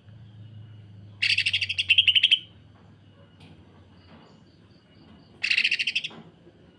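Cucak ijo (green leafbird) giving two bursts of harsh, rapid, sewing-machine-like rattling calls, the second one shorter. A faint string of short high notes comes between them.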